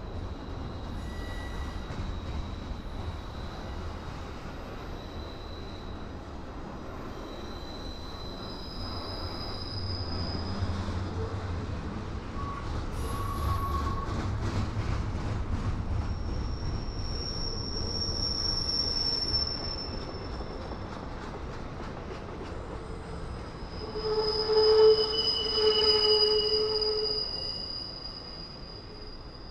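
Double-stack intermodal well cars rolling past on the rail, a steady low rumble with high wheel squeals that come and go. The loudest squeal comes about 25 s in. The sound then fades as the end of the train goes by.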